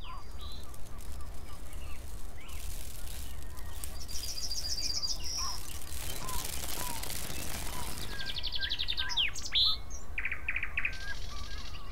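Woodland birdsong from several birds: short chirps and whistles with a few fast, high trills, over a steady low rumble.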